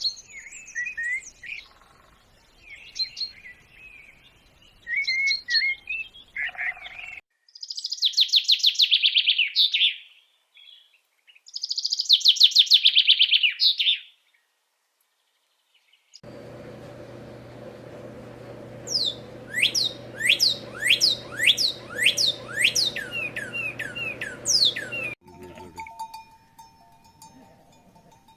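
Small birds chirping and singing across a series of separate clips. First scattered chirps, then two loud, rapid trills about two seconds long each. After a short gap comes a run of quick downward-sliding whistled notes over a steady hum.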